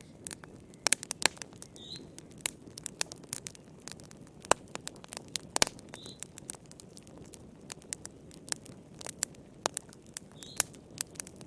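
Wood fire crackling: irregular sharp pops and snaps, several a second, over a low steady rush of the flames. A faint short high chirp recurs about every four seconds.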